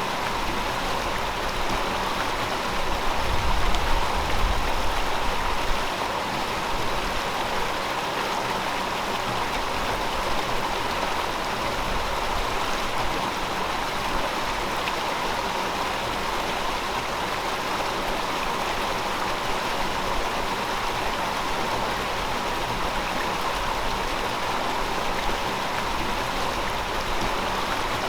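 Steady rushing of a flowing river, an even hiss with no breaks. A low rumble swells for a couple of seconds about three seconds in.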